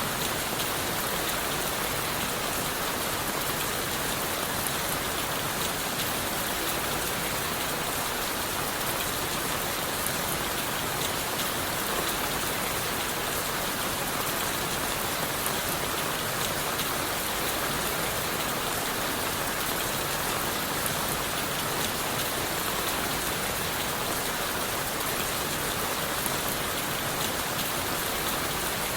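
Steady rain falling on leaves, wood and the forest floor, an even hiss dense with fine drop patter that holds level throughout.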